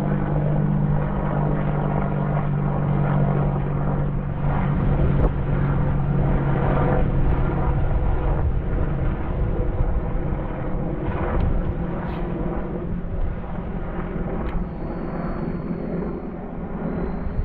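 A steady engine drone that fades out after about four seconds, over constant low rumbling noise.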